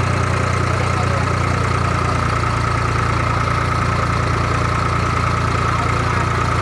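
An engine idling steadily, with an even low throb and a constant thin whine above it.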